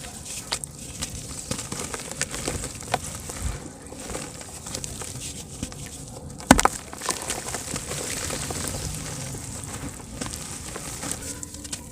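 Soft dry dirt chunks crumbling in water, giving a steady crackle of small ticks and pops. About six and a half seconds in there is one much louder knock or splash.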